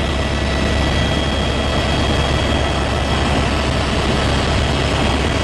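Helicopter's engine and rotors heard from inside the cabin in flight: a steady loud drone with constant high-pitched whines over a deep rumble.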